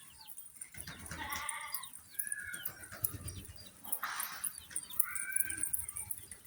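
Domestic pigeon squabs giving squeaky, wheezy begging calls while being crop-fed by a parent, with a rustling burst about four seconds in and low murmuring underneath.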